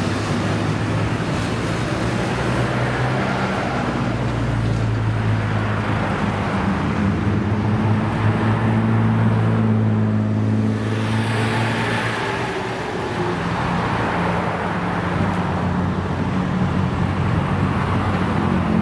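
Modified Japanese cars' engines running as the cars move past slowly, a steady low exhaust drone with road noise that eases off about two-thirds through and comes back near the end.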